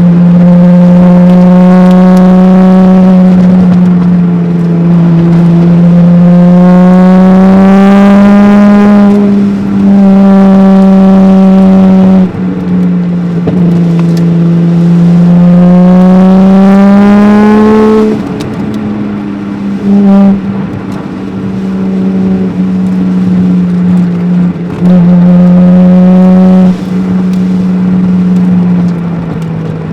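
Toyota 1JZ twin-turbo straight-six engine pulling hard, heard from inside the car: the revs climb twice and fall away sharply each time the throttle is lifted, with short lifts and steady stretches between.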